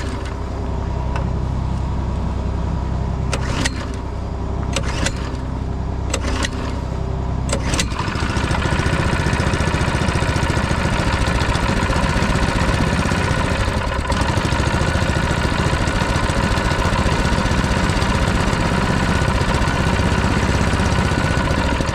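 Engine running with some sharp clicks for about eight seconds, then picking up to a louder, steady higher speed. It is starving for fuel, which the owner puts down to ice in the fuel after it froze up.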